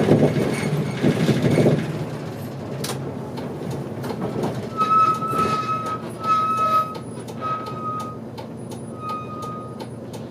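Interior running sound of a Hino Rainbow HR diesel city bus. The low drive rumble fades after about two seconds as the bus slows and the cabin goes quieter. A series of short, steady electronic beeps sounds about five times in the second half, with light clicks and rattles around them.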